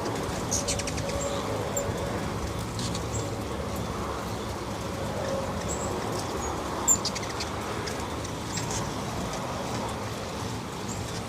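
Hummingbirds at a feeder giving short, high chip notes scattered through, over a steady low background rumble. A sharp click about seven seconds in.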